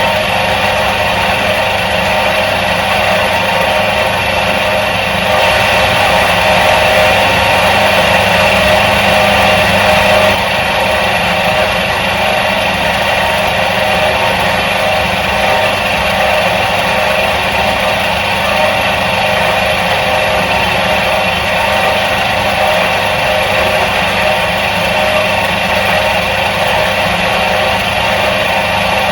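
Electric motor of a 1977 Soviet washing machine running steadily: a continuous hum with several steady tones. It grows a little louder about five seconds in and settles back about five seconds later.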